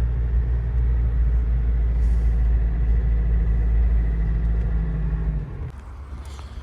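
GAZelle van's engine running steadily with a low rumble; it cuts off abruptly about five and a half seconds in, leaving only faint background sound.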